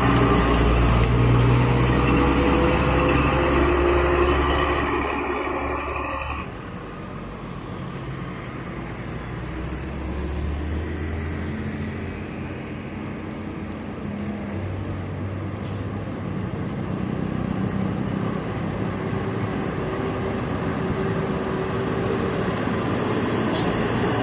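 Heavy truck engines running as vehicles pass. About six seconds in the sound cuts abruptly to quieter traffic, which builds up again toward the end.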